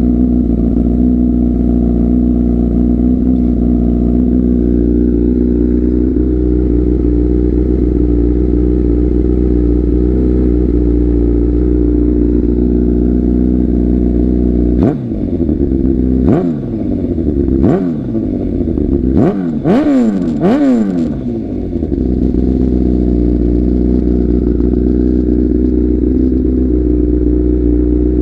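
Motorcycle engine with a Toce aftermarket exhaust idling steadily, then given about five short, quick blips of the throttle a little past halfway, each rising and falling back, before settling to idle again.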